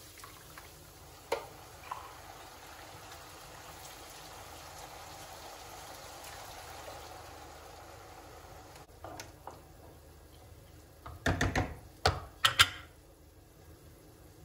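Kitchen sounds: a steady watery hiss for several seconds, then a few sharp clatters of cookware near the end, the loudest about twelve seconds in.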